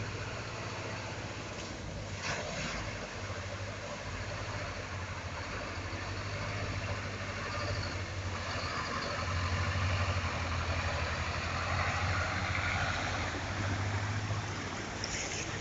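Rain falling in a steady hiss over a constant low rumble, growing louder from about halfway through before easing near the end.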